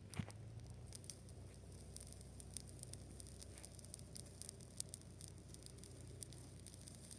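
Faint, irregular crackling and ticking of dry grass: scattered sharp snaps at an uneven pace over a low steady hum.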